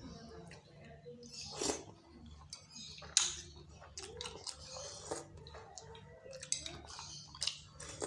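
Close-up eating of bakso Malang: irregular chewing and slurping with sharp clicks of a spoon against the bowl, a few louder strikes about one and a half and three seconds in, over a low steady hum.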